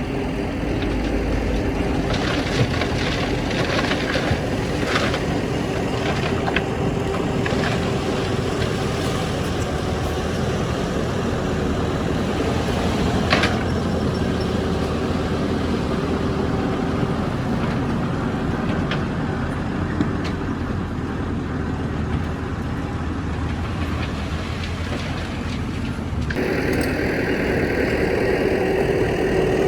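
Heavy diesel earthmoving machinery running steadily, with scattered knocks and clanks. The sound changes abruptly near the end to a steadier engine hum.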